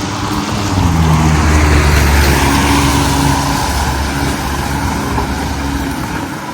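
A motor vehicle passing close by: a low engine hum with a broad rush of road noise that grows to its loudest about two seconds in, then slowly fades.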